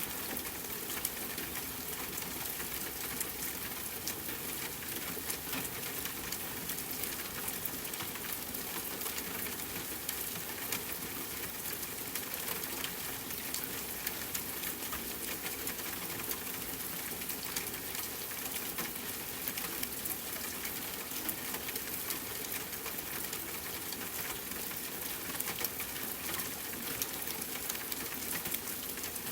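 Steady rain hiss mixed with the dense, irregular small crackles of a campfire.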